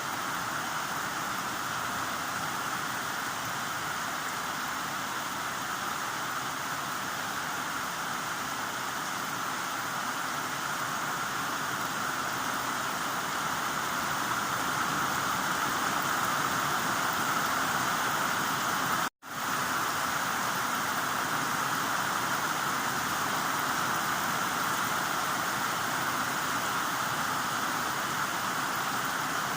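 Heavy rain falling, a steady, even hiss. It cuts out completely for a split second about two-thirds of the way through, then comes straight back.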